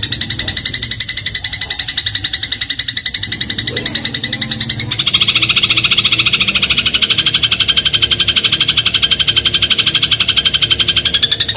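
Eurasian tree sparrow (burung gereja) giving a fast, unbroken chattering trill of about ten notes a second. The trill drops in pitch about five seconds in and rises again near the end.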